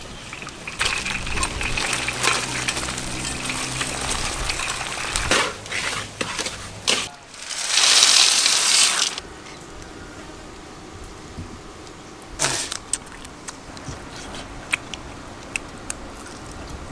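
Wok cooking: batter sizzling as it fries in hot oil, with clinks of metal utensils, then a loud rush of about two seconds around eight seconds in as roasted peanuts are poured from a metal tray into a wok of bubbling liquid, followed by scattered clinks.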